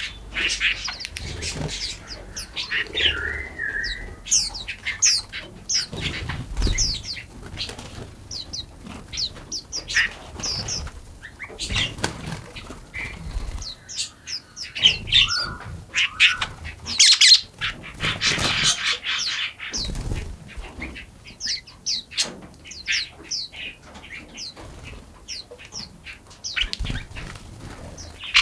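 Several forest songbirds chirping and singing, with many short, overlapping calls and a busier stretch a little past the middle. A few soft low thumps come between the calls.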